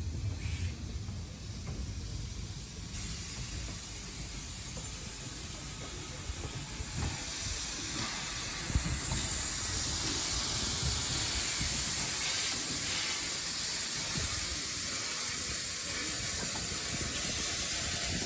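Steam hissing from an LB&SCR A1 Terrier 0-6-0 tank locomotive standing ready for service. The hiss starts faint a few seconds in, swells loud about halfway and then holds steady.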